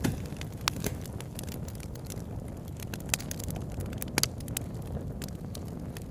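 Campfire crackling, with irregular sharp pops of burning wood (a loud double pop about four seconds in), over a steady low rush of a flowing river.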